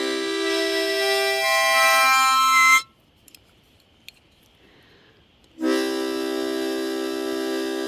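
Harmonica played in long held chords: the first chord's notes step upward and it breaks off about three seconds in; after a few seconds' pause with a couple of faint clicks, another steady chord is held.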